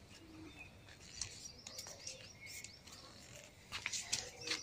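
Birds chirping faintly, short high calls scattered through. Near the end come a few sharp clicks and rustles, louder than the birds.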